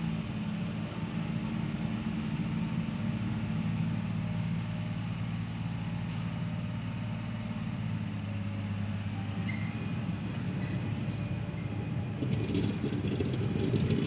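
John Deere 1050 tractor's three-cylinder diesel engine running steadily as it works clearing snow. About twelve seconds in, a rougher clattering noise joins it and the sound grows louder.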